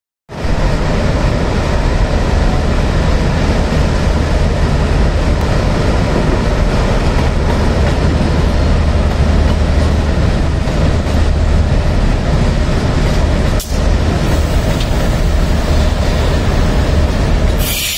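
HXD3D electric locomotive and green passenger coaches rolling slowly past: a steady rumble of wheels on rail with a low hum. A short, loud hiss comes near the end.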